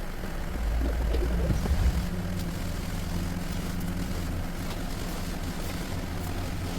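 Renault 1.3 TCe turbocharged four-cylinder petrol engine of an XM3 running at idle, a steady low hum that is louder for a moment between about half a second and two seconds in.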